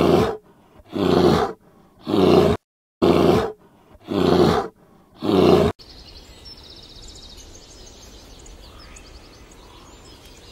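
A black bear growling: six short, loud growls about a second apart. They stop about six seconds in, giving way to quiet outdoor ambience with faint bird chirps.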